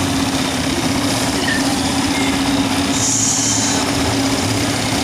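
Bumper boat's small engine running with a steady, even hum, with a short hiss about three seconds in.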